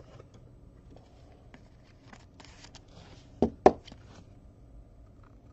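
Soft rustling and handling of trading-card packaging and holders, with two sharp clicks close together about three and a half seconds in.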